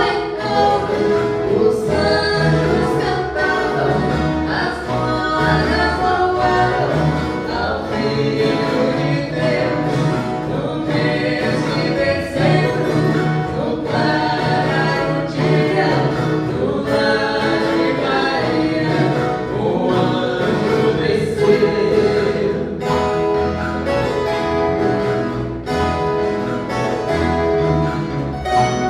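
Viola caipira ensemble playing a Christmas song, with a group of voices singing over the plucked strings.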